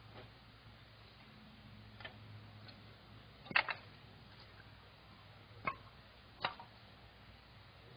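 A few sharp, separate clicks and knocks at irregular intervals, one of them doubled, over a faint steady low hum.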